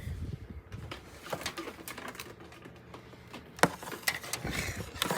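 Irregular light clicks and knocks of small plastic toys being handled, with two sharper clicks in the second half.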